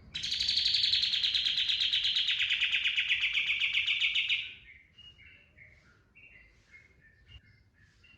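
Kapas tembak songbird singing its rapid "tembakan" trill: a loud, fast, evenly pulsed rattle that slides slowly down in pitch for about four seconds, then breaks off into softer, short separate chirps.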